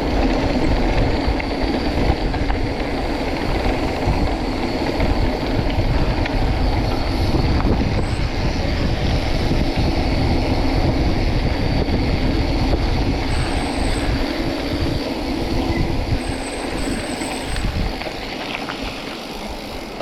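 Wind buffeting and rattling on a camera carried down a trail descent: a loud, steady, rough rumble that eases off slightly near the end.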